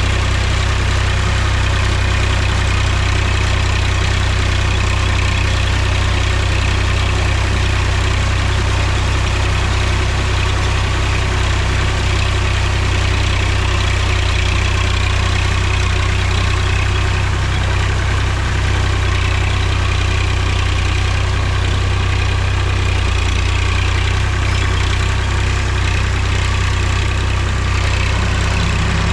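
Mahindra tractor's diesel engine running at a steady speed, a constant low engine note with no change in pitch or level.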